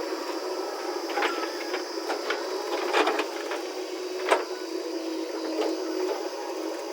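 A machine running steadily, with several sharp knocks and clatters over it: one about a second in, a cluster about three seconds in, and the loudest just past four seconds.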